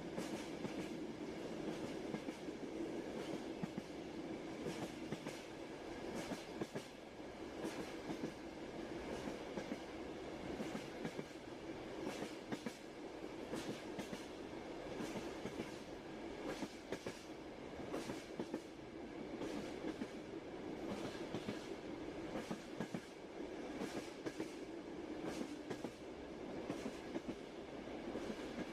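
Moving train running steadily, its rumble overlaid with frequent irregular clacks of the wheels.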